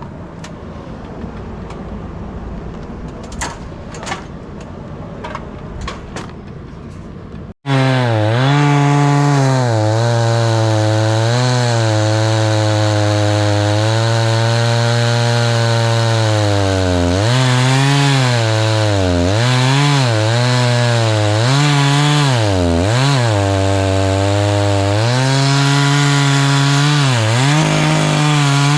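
A chainsaw starts abruptly about a quarter of the way in and runs loud to the end, its engine pitch dropping and recovering again and again as the chain bites into the wood. Before it there is a lower rustling noise with a few sharp clicks.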